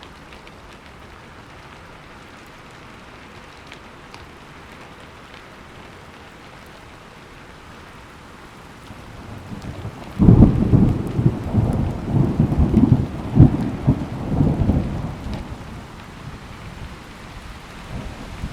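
Steady rain falling, then a thunderclap about halfway through: a low rumble builds, breaks sharply and rolls on in several peaks for about five seconds before fading back into the rain.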